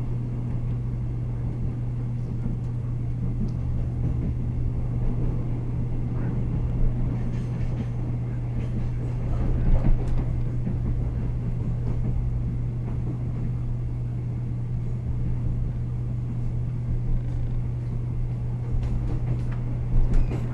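Steady running rumble heard inside a moving Taiwan Railway EMU100 electric multiple unit, with a constant low hum under it. There are a couple of brief louder bumps, about halfway through and near the end.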